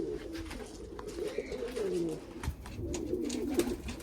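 Several pigeons cooing, a steady overlapping run of low warbling coos.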